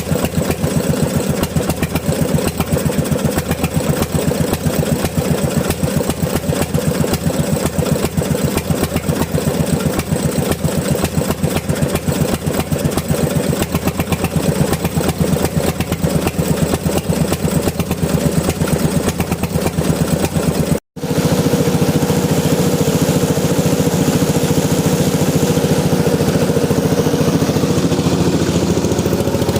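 Bernard Moteurs W14 15 HP engine running steadily with a fast, even firing beat. The sound cuts out for an instant about two-thirds of the way through, then carries on smoother and more even.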